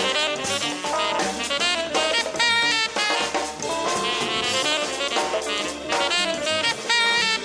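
Built-in ringtone playing on a Samsung BeatDJ (GT-M7600) phone: a jazzy tune, a melody over a steady drum beat.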